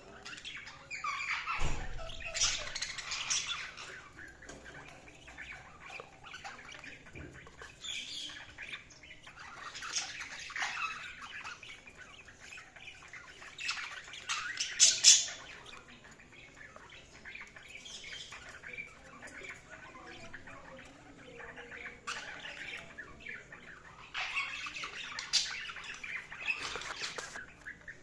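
Budgerigars chirping and warbling, with occasional squawks, in several bursts of busy chatter and quieter gaps between them.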